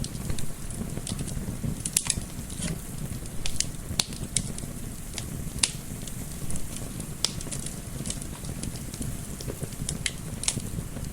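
Wood fire crackling, with irregular sharp pops and snaps over a steady low rumble of gentle wind.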